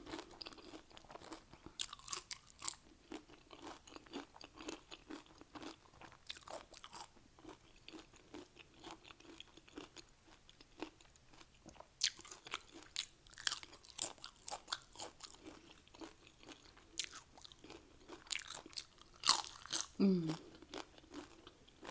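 Doritos nacho chips being bitten and chewed: repeated crisp crunches and mouth clicks, with denser bursts of crunching now and then. A short hummed 'mm' near the end.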